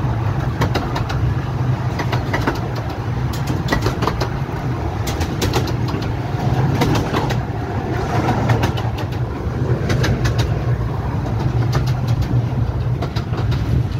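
Riding on a Romney, Hythe and Dymchurch Railway miniature train running along the 15-inch-gauge track: a steady low rumble with irregular clicks and knocks from the wheels on the rails.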